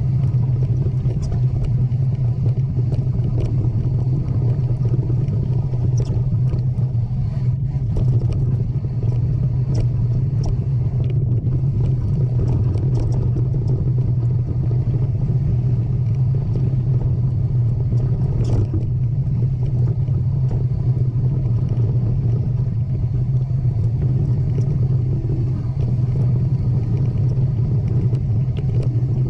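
Steady low rumble with scattered light clicks and rattles, and one sharper click about eighteen seconds in.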